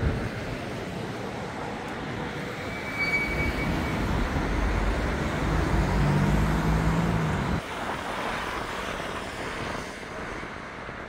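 City street traffic: a steady rumble of passing vehicles. An engine hum swells about halfway through and cuts off suddenly.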